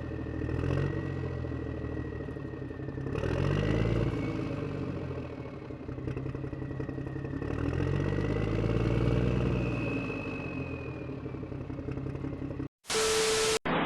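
An engine running, its revs rising and falling twice, with a thin high whine above it; the sound cuts off abruptly near the end.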